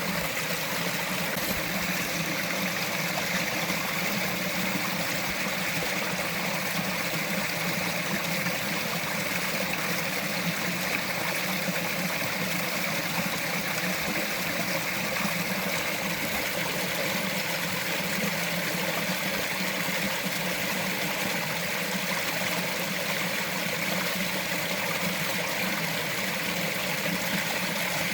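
Small mountain stream flowing and trickling over rocks, a steady, even rush of water.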